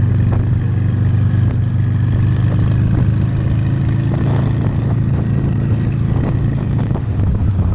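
Honda Steed V-twin motorcycle engine running steadily while riding, its note dropping slightly near the end as the bike eases off.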